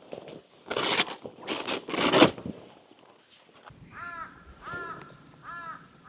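A few short noisy scrapes in the first half, then a bird gives four caws, a little under a second apart, in the second half.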